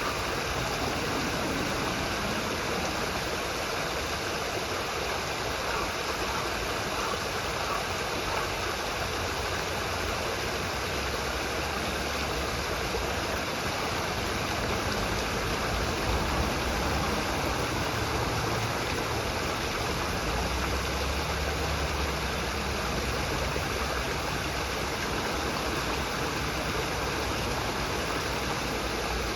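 Steady rushing of running water, as from a stream, with some added low rumble partway through.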